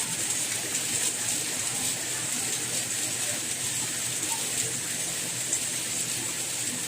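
Steady rain, an even hiss with a few faint scattered drop ticks.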